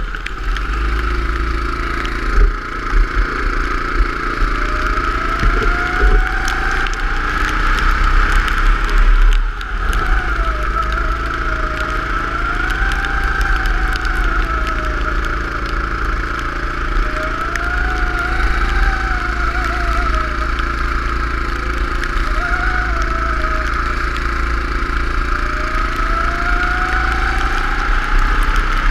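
Go-kart engine running at speed, its pitch rising and falling every few seconds as the kart accelerates and then lifts, over a steady low rumble.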